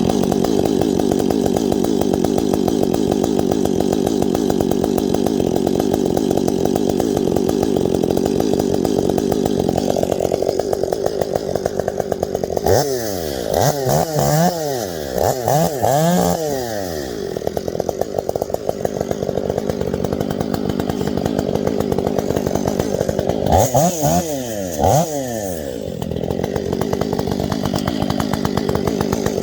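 Chainsaw running steadily, then revved up and down over and over near the middle, and again for a couple of seconds later on.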